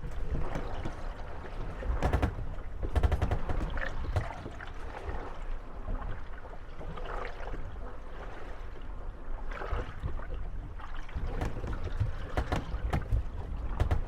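Moored gondolas rocking on the water, their wooden hulls knocking and creaking against each other over lapping water. The knocks come in clattering clusters about two to three seconds in and again near the end, with short creaks between.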